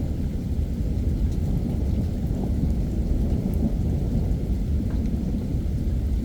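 Heavy rain pouring during a thunderstorm, under a steady low rumble of thunder, with faint scattered drop ticks.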